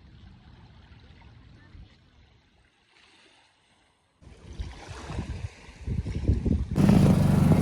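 Wind rumbling and buffeting on the microphone with water noise aboard a small sailboat, dropping out briefly about midway. Near the end it cuts abruptly to a much louder steady droning hum.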